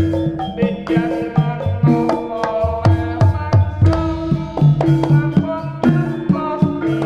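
Live Javanese jaranan music: kendang hand drums beating a rhythm over ringing gamelan metallophones.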